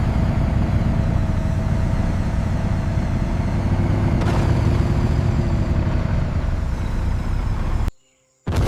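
Aircraft engine running with a loud, steady low rumble; it starts abruptly and cuts out suddenly near the end.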